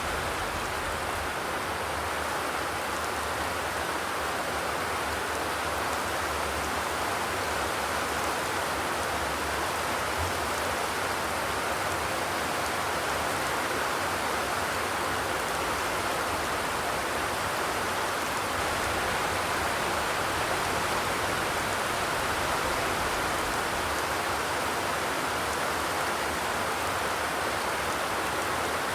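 Steady rain falling on a corrugated zinc roof, an even hiss with no thunder.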